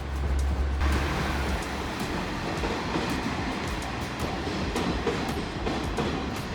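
A train passing, with a steady rush of wheel and rail noise and repeated clicks of the wheels over the rail joints.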